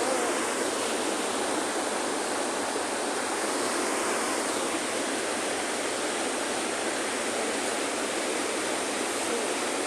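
Steady rushing noise, with a faint chirp right at the start and another faint one near the end.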